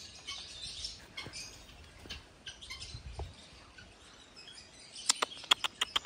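Small birds chirping in the background in short, scattered high notes, with a quick run of about six sharp clicks near the end.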